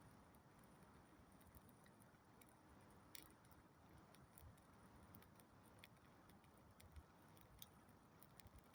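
Campfire crackling faintly: a soft hiss with scattered sharp pops of burning wood, two louder pops about three seconds in and near the end.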